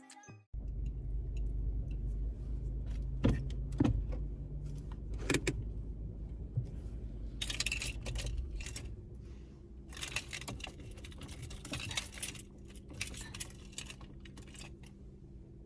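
Keys jangling in a few bursts, about halfway through and again a little later, over a low steady rumble like a car running, with a few sharp clicks earlier on.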